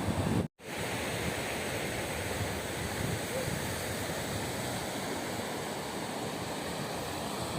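Sea surf breaking on a beach, heard as a steady wash of noise, with wind buffeting the microphone. It is broken by a brief dropout to silence about half a second in.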